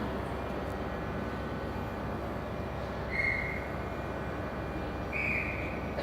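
Steady rumble of a train at a station platform, with two short high-pitched tones about two seconds apart.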